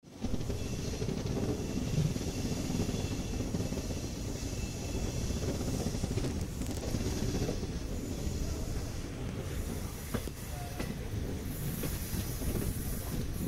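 Passenger train coaches rolling along the track: a steady rumble of wheels on rails with a few faint clicks.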